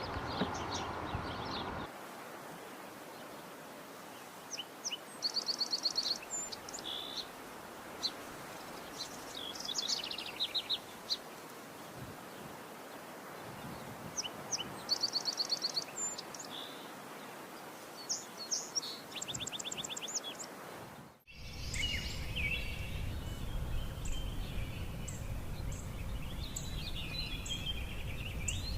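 Yellow-rumped warbler singing: short, rapid trilled phrases repeated every few seconds. About two-thirds of the way in the sound cuts abruptly to a louder, noisier background with fainter bird calls.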